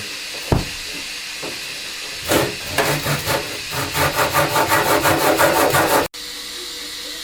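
A saw cutting through hardboard sheet in quick, even back-and-forth strokes, about five or six a second, that stop abruptly near the end, leaving a steady hiss.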